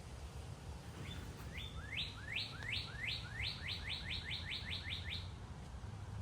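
A songbird singing one phrase of about a dozen short notes, each sweeping upward in pitch, that come faster and faster before it stops.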